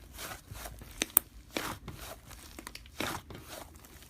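Slime being pressed and squished, making crinkly, crackling noises in soft bursts about every second and a half, with one sharp click a little over a second in.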